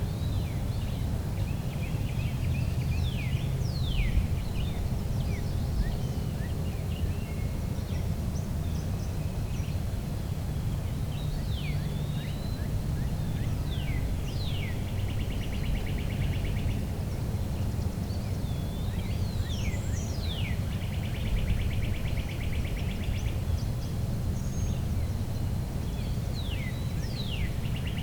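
Woodland songbirds calling: many short down-slurred whistled notes, and a fast dry trill of about two seconds repeated three times, over a steady low rumble.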